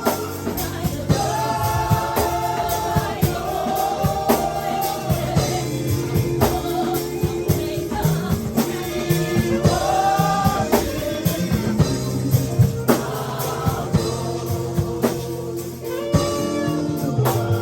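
Gospel worship music: sung phrases over sustained keyboard chords and a steady drum beat.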